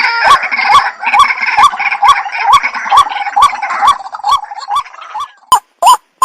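White-breasted waterhen (ruak-ruak) calling: a fast, even string of 'ruak' notes, about two a second, each a short note that rises and drops. A busier layer of other calls under them fades out over the first five seconds, leaving the repeated notes clean near the end.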